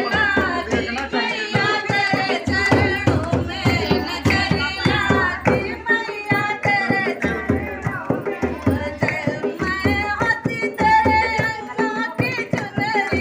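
A woman singing a devi geet, a Hindi folk devotional song to the goddess, over steady rhythmic hand percussion.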